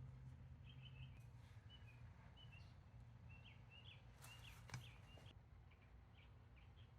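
Near silence with faint, short bird chirps repeating in the background and a low steady hum. A brief rustle with a sharp click about four and a half seconds in.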